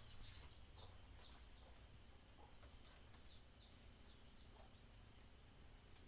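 Faint countryside ambience: a steady high-pitched insect trill with a few faint, short bird chirps.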